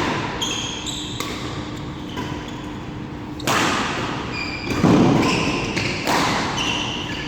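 Badminton rally in an echoing hall: sharp racket strikes on the shuttlecock about every second or so, with short squeaks of court shoes on the floor in between.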